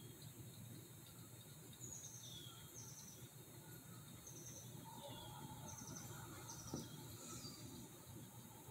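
Faint outdoor ambience with a small bird giving short, high chirps that each dip slightly in pitch, repeated every second or so over a low background rumble, with one soft tap about two-thirds of the way through.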